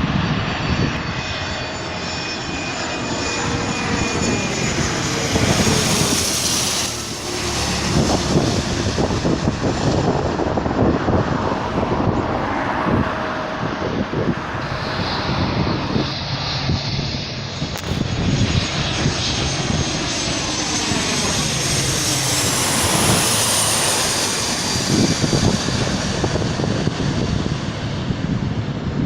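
Arriving airliner flying low overhead on final approach, a loud engine roar whose tones slide down in pitch as it passes.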